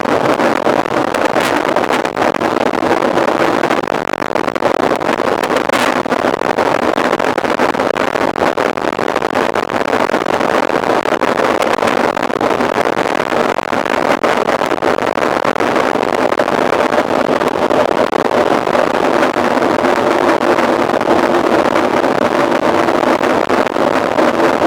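Steady, loud rushing of wind buffeting a camera microphone while riding a mountain bike, with a faint hum coming in near the end.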